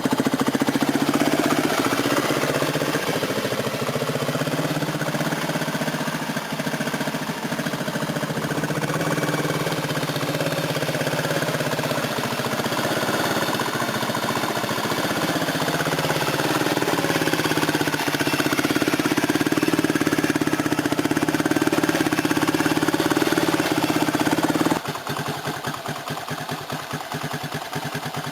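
A 2006 Suzuki DR200SE's air-cooled single-cylinder four-stroke engine idling on half choke, its speed wandering slightly. About 25 seconds in it drops abruptly to a quieter, slower beat with the single cylinder's firing pulses heard one by one.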